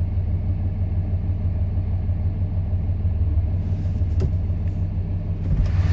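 2006 Dodge Ram 2500's 5.9L Cummins inline-six turbo diesel idling steadily with a low rumble. A few faint clicks come about four seconds in, and near the end the engine grows louder and brighter.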